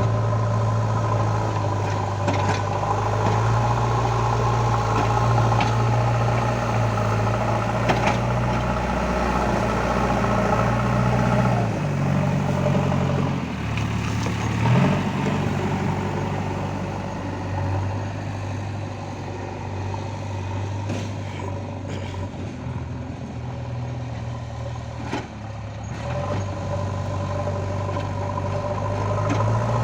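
JCB 3DX backhoe loader's diesel engine running, its note dropping about twelve seconds in and rising again near the end, with a few sharp knocks along the way.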